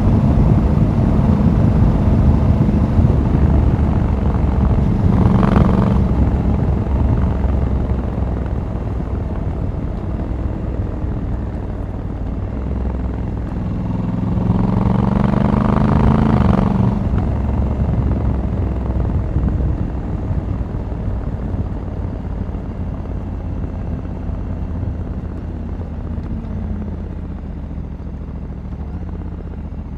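Honda Africa Twin 1100 DCT's parallel-twin engine running on the road with wind rush, heard from the rider's seat. About halfway through the revs climb for a couple of seconds, then the engine settles and grows gradually quieter toward the end.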